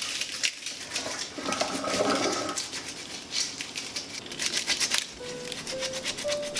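A run of quick clicks and knocks, like small objects being handled, with soft background music notes coming in near the end.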